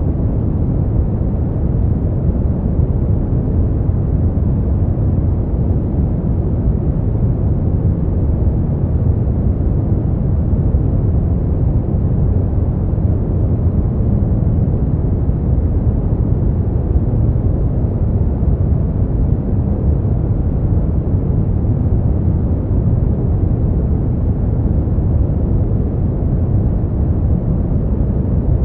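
Steady sleep noise, a deep even rumble weighted to the low end with little hiss on top, unchanging throughout.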